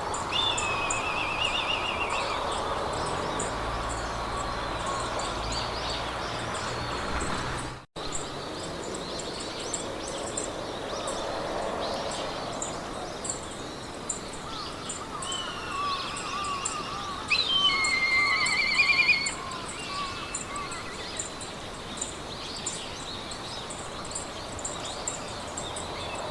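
Meadow ambience: several birds singing trilled and warbling phrases over a steady high-pitched insect chirping. The birdsong is loudest about two-thirds of the way through, and the whole sound cuts out for a moment about eight seconds in.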